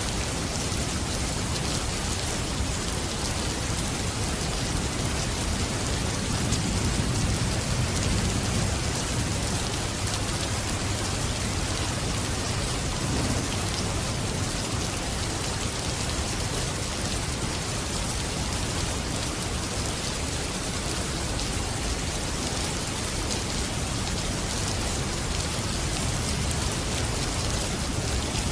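Steady heavy rain falling, a dense even patter, with a slight low swell about seven seconds in.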